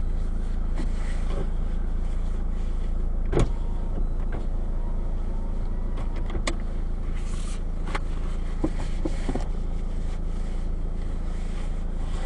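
Steady low car rumble heard from inside a car's cabin, with a few sharp clicks and knocks, the loudest about three and a half seconds in.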